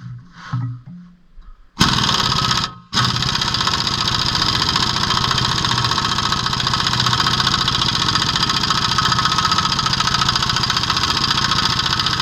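Pneumatic air tool hammering rapidly at a stuck ball joint, working it loose from the steering knuckle. A short burst about two seconds in, a brief pause, then a long steady run.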